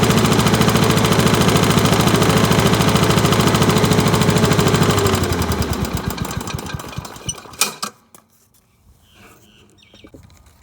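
Honda HRU216 lawn mower's single-cylinder engine running steadily with its freshly cleaned carburettor, then slowing down about halfway through and coasting to a stop, with a single clunk as it dies.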